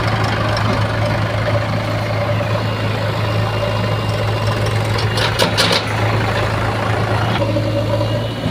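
Heavy diesel engine of a backhoe loader or tractor running steadily at idle, with a low, even hum. A few sharp metallic clicks come about five seconds in.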